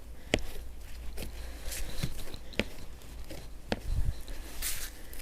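Powdery snow being cleared off a car with a snow brush: a few brief swishes and several sharp, scattered knocks and crunches.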